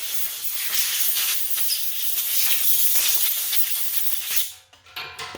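Loud, steady hiss of pressurized gas escaping, which cuts off about four and a half seconds in; a few short, fainter sounds follow near the end.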